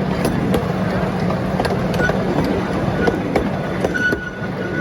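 A small scenic-railway train running along its track: a steady low drone, with irregular clicks and rattles from the wheels and cars.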